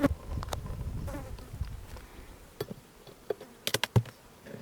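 Honeybees buzzing around an open hive, with several sharp clicks and knocks, a quick cluster of them near the end being the loudest.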